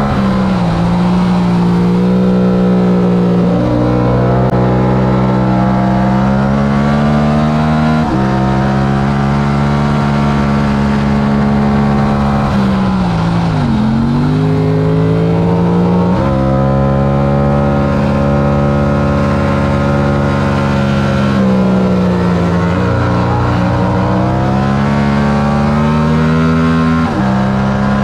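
Yamaha R7's 689 cc parallel-twin engine under race throttle, its pitch climbing and falling as it works through the gears. It steps sharply several times at the gear changes, with a deep drop and climb back about halfway through where the bike slows and picks up speed again.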